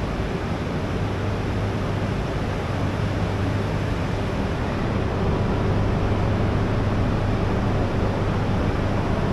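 E3-series Mini-Shinkansen train creeping slowly along the platform to be coupled: a steady low hum from the train over an even rumble and hiss, growing slightly louder about halfway through.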